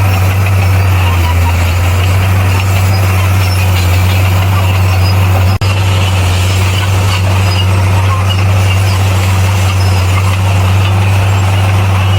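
Bulldozer's diesel engine running steadily with a strong low drone. The sound drops out for an instant about five and a half seconds in.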